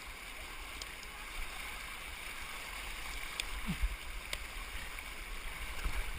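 Steady rush of creek water flowing past, with a couple of faint knocks about halfway through.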